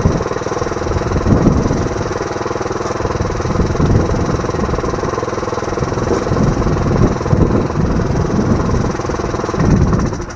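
Small Briggs & Stratton engine running steadily, driving a portable bandsaw through a right-angle gearbox and belt pulleys, with its note swelling now and then.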